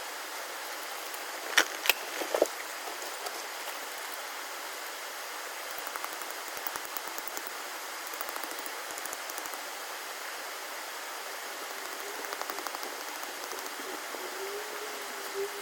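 A steady rushing hiss like running water or rain, with three sharp knocks about two seconds in and short bursts of light, rapid clicking later on. A faint wavering tone comes in near the end.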